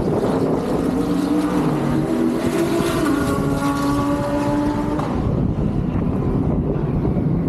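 An engine running for about five seconds, its pitch shifting slightly, then fading, with wind rushing over the microphone throughout.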